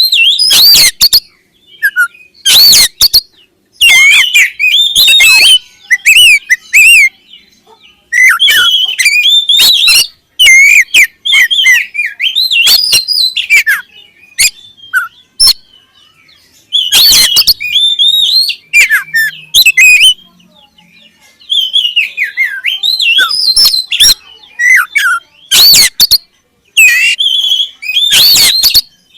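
Oriental magpie-robin (kacer) singing loud, varied phrases of whistled glides and harsh rattling notes, in bursts of a second or two with short pauses between.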